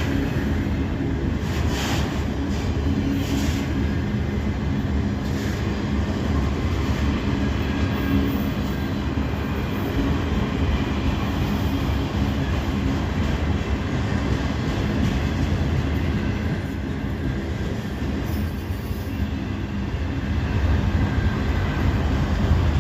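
Freight train cars rolling past: a steady rumble of steel wheels on the rails, with a few sharp wheel clacks in the first few seconds.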